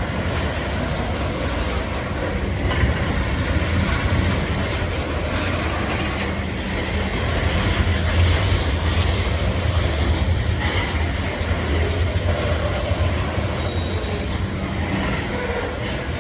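Cars of a BNSF coal train rolling past on the track: a steady low rumble of wheels on rail, with occasional clacks.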